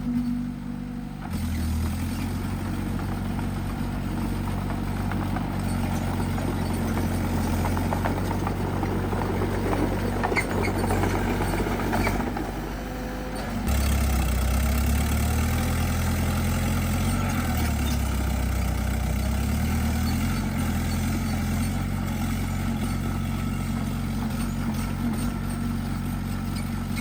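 Bulldozer's diesel engine running steadily. It dips briefly about twelve seconds in, then picks up again.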